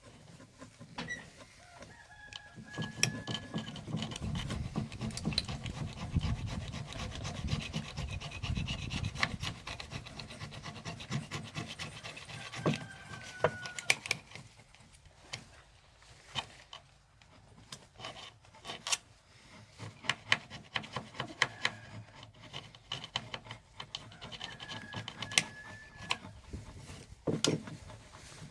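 Hand scraping and rubbing, with many scattered clicks and taps and a few short squeaks.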